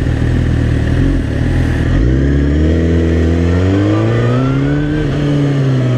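Suzuki GSX-R sport bike's inline-four engine running under way, with wind noise: steady for about two seconds, then rising in pitch as it accelerates until about five seconds in, easing off slightly near the end.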